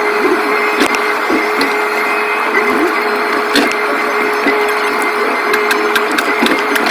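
Excavator working: a steady whine of the engine and hydraulics with scattered clanks and creaks.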